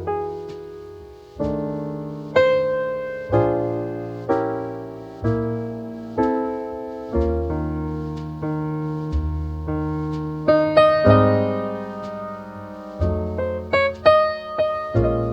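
Mellow jazz piano playing slow chords, each struck and left to ring and fade, with low notes beneath and a quicker run of notes near the end.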